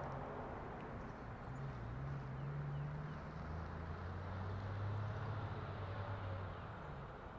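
Car engine pulling away, its low drone swelling and rising slightly in pitch, then dying away near the end as the car moves off. Faint bird chirps in the background.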